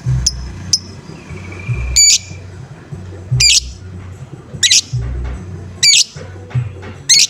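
Lovebird giving short, shrill, harsh squawks, seven in all, roughly one a second: the 'ngoek-ngoek' call used as a lure to set other lovebirds calling.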